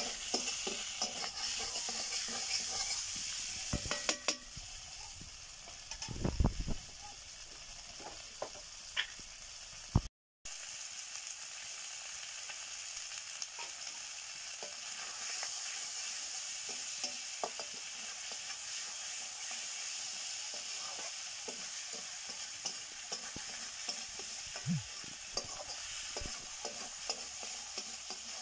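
Chicken pieces sizzling in oil in an iron kadai while a wooden spatula stirs and scrapes against the pan, giving a steady hiss broken by short scraping clicks. The sound cuts out briefly about ten seconds in, then the sizzling and stirring carry on.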